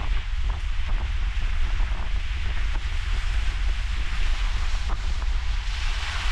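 Wind buffeting the microphone over ocean surf, with a heavy, uneven rumble; the hiss of the surf swells near the end as a wave washes in.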